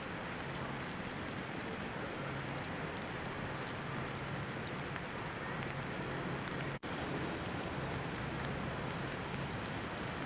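Steady rain falling, with a low hum that comes and goes underneath. The sound cuts out for an instant about two-thirds of the way through.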